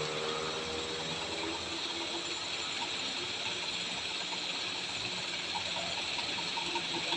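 A steady hiss, with a diesel truck engine running faintly underneath.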